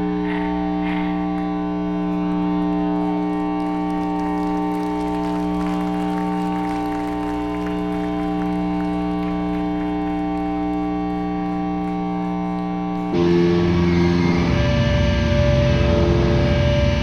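Live heavy band holding a sustained amplified drone of steady overlapping pitches. About 13 seconds in, the full band crashes in louder with dense distorted playing.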